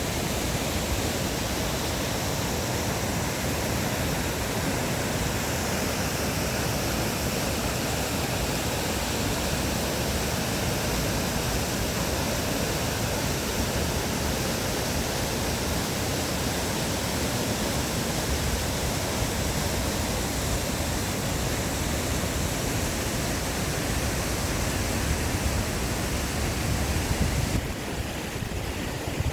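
Mountain valley stream rushing with a steady, full hiss of water. Near the end the higher hiss thins and the sound gets a little quieter.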